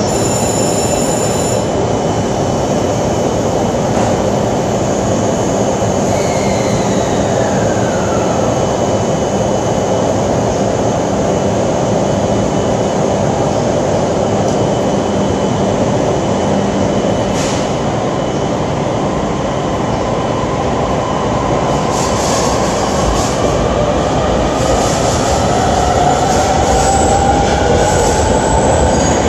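Electric commuter train running along a station platform with a steady rumble of wheels on rail. A motor whine falls in pitch about six seconds in, and from about twenty seconds in a whine rises slowly as a train accelerates.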